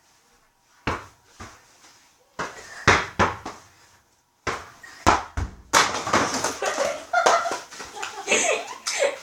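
A volleyball being hit and bouncing, a series of irregular thumps, with excited children's voices in the second half.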